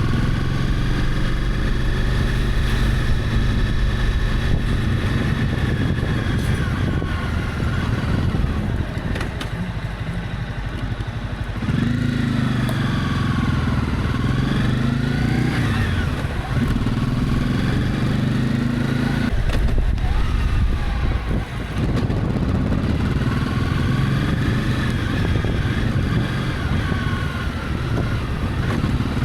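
Honda CB300F single-cylinder motorcycle engine running while riding, its pitch rising and falling with the throttle. It eases off twice, around nine seconds in and again around twenty-one seconds in, then pulls again.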